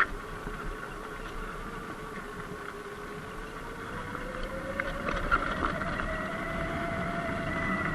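Sur-Ron Light Bee X electric dirt bike riding, its motor and drive giving a steady whine that climbs in pitch in the second half as it speeds up. Low wind rumble runs under it, and a few short ticks sound around the middle.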